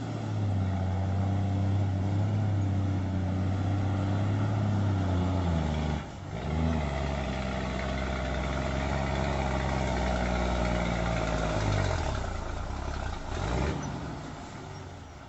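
Heavy truck engine running steadily under load. Its pitch drops and picks up again about six seconds in, then falls and rises once more near the end before fading.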